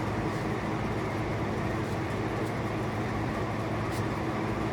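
Electric shop fans running with a steady hum and whoosh, with a few faint ticks.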